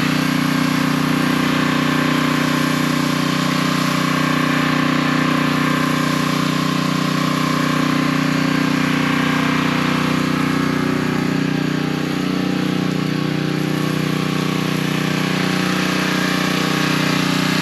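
Gasoline pressure washer engine running steadily under load, with the hiss of the spray as it applies cleaning solution through the black soap tip.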